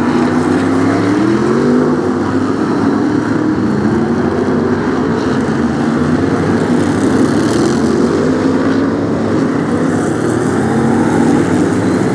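BriSCA F1 stock cars racing on a shale oval, several V8 engines at once, their notes rising and falling as the cars accelerate and lift off.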